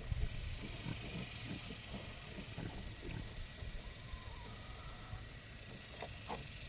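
Pigs grunting in short, repeated low grunts, with a few sharper clicks among them.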